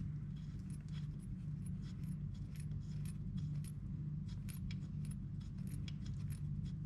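Light, irregular metallic clicking and clinking of hand tools being handled while fitting a spark plug, over a steady low hum.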